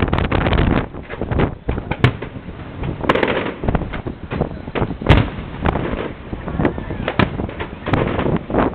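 Fireworks going off: a dense, irregular run of bangs and cracks of varying loudness, with an especially loud bang about five seconds in.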